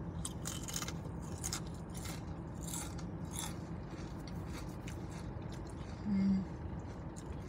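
A person chewing food close to the microphone, with scattered small clicks and crunches, and a short closed-mouth 'mm' hum about six seconds in.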